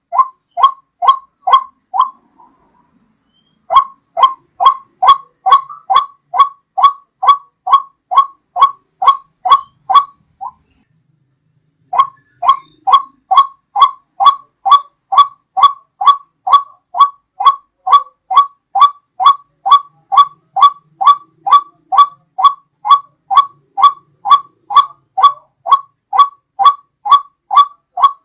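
White-breasted waterhen (ruak-ruak) calls repeated about twice a second, each a short falling note, in long runs broken by two brief pauses, played as a hunting lure.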